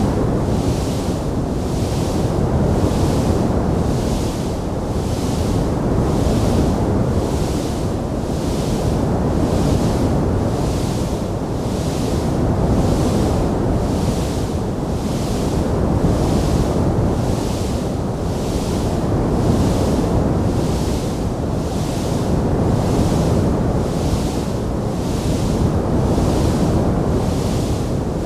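Wood fire burning in a fireplace: a steady low rushing roar with a hiss that pulses evenly about once a second. No distinct crackles or pops stand out.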